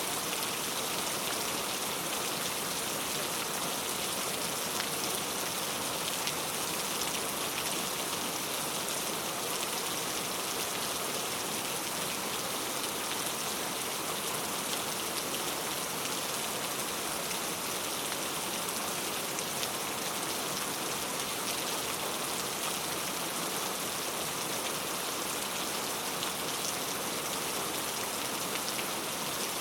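Steady rain falling, a constant hiss of drops with fine pattering ticks and no change in intensity.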